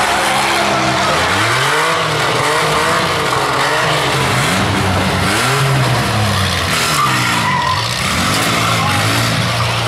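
Minivan engines revving hard, their pitch rising and falling again every second or two as the drivers push their vans around the derby arena, over a constant noisy wash.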